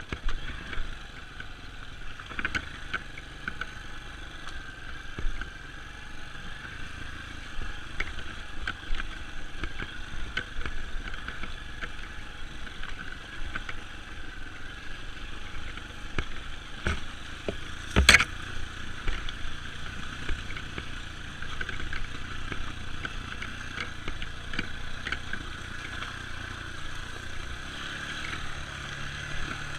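Dirt bike engine running steadily while riding a trail, with frequent short knocks and rattles from the rough ground. One loud, sharp knock comes about eighteen seconds in.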